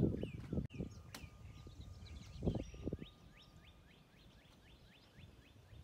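A bird singing a quick run of short rising chirps, about four a second, over faint low rustling.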